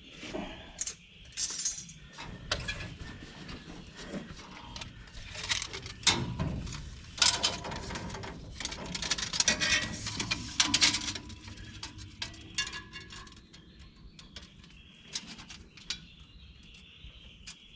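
Irregular metal clinks, rattles and knocks of hand work with a tape measure against the hay baler's metal parts, busiest in the middle.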